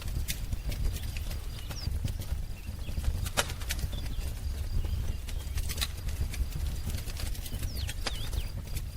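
Wood fire crackling, with irregular sharp pops over a low steady rumble. A few brief bird chirps come in about two seconds in and again near the end.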